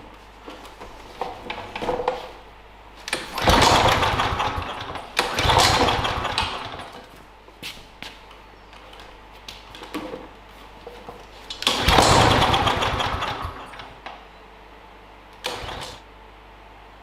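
Briggs & Stratton DOV engine on a Klippo Pro 19 lawnmower being pull-started. Three loud bursts of engine noise, each lasting a second or two and fading out, followed by a short weaker one near the end: the engine is not staying running.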